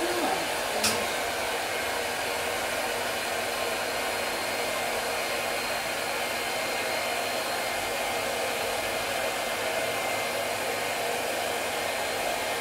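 Dog grooming dryer blowing steadily, drying a freshly bathed dog's coat.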